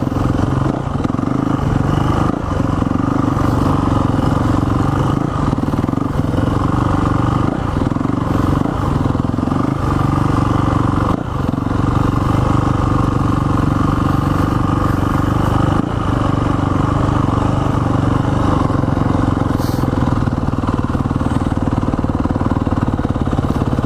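Dirt bike engine running steadily under light throttle while riding, a constant drone with only small dips in level.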